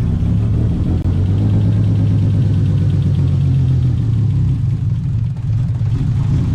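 Lexus IS300's turbocharged inline-six running steadily at a held speed with no load, loud inside a garage, while its new base fuel map is auto-tuned.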